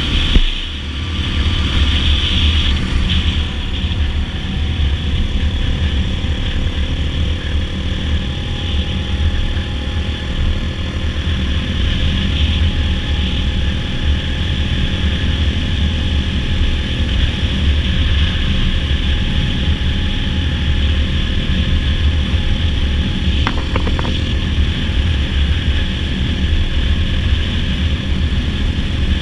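Dirt bike engine running at a steady cruise, with wind rushing over the microphone.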